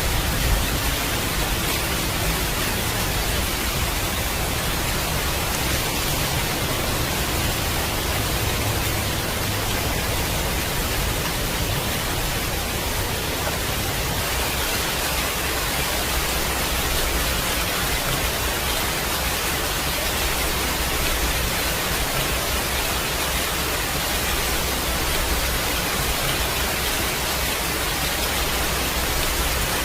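Steady heavy rain, a dense even hiss, with a low rumble underneath that swells and eases.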